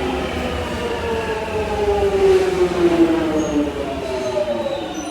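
London Underground Jubilee line 1996 stock train with its traction motors whining in several tones that fall steadily in pitch as the train slows.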